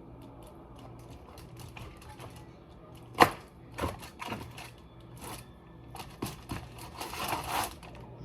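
Kitchen handling clatter: a string of clicks and knocks from utensils and containers, the loudest a sharp clack about three seconds in, with a brief rustle near the end, over a steady low hum.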